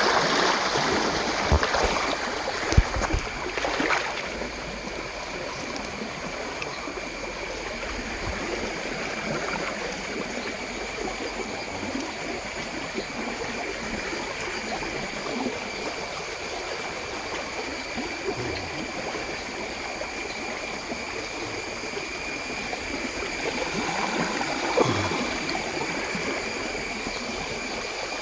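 Small stream flowing steadily past, a continuous rush of water. A few brief knocks sound in the first four seconds, and there is a short louder moment near the end.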